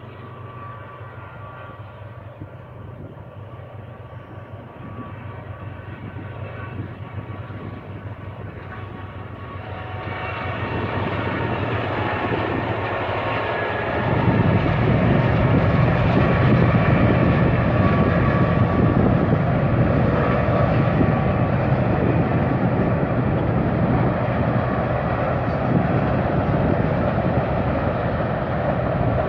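Diesel freight train approaching, its locomotive engines' low drone growing steadily louder, then jumping sharply in loudness about halfway through and running loud and steady as the train rolls onto a railway trestle.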